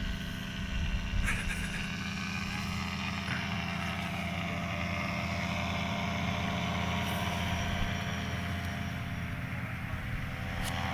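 An engine running steadily with an even, unchanging hum, a little louder near the end.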